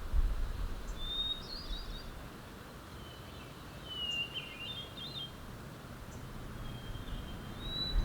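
A wild songbird singing short whistled phrases, some clear and gliding, some warbled, every second or two, over a low background rumble.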